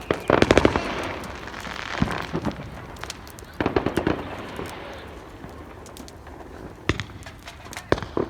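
Fireworks crackling in three quick volleys of rapid pops, then two single sharp bangs near the end.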